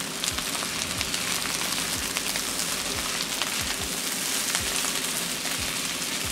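Fried rice sizzling in a hot wok while a slotted spatula stirs and tosses it, with many small crackles and regular soft strokes as the spatula sweeps through the rice.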